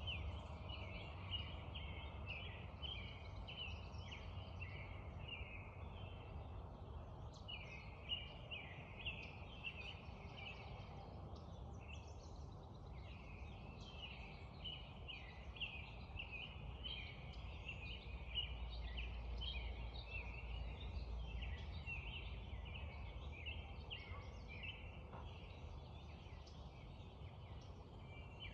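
Birds singing in a dense dawn chorus of short, quickly repeated high notes, with brief lulls, over a low steady background rush.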